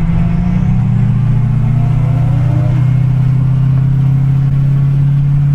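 Car engine running steadily under light throttle, a low drone whose pitch rises a little over the first couple of seconds and then holds.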